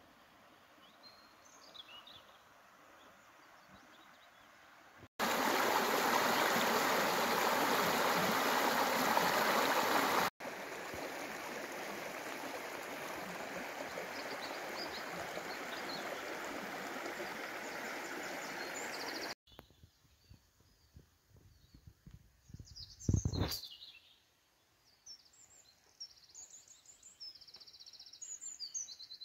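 Outdoor ambience in abruptly cut segments: a loud, steady rushing noise like running water or wind, dropping a step in level after about five seconds, then cutting to quiet surroundings with small birds chirping and one sharp knock.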